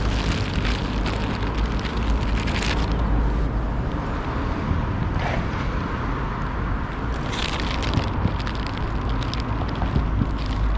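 Steady low rumble of road traffic from a parking lot, with a constant low hum and a crackling hiss over it.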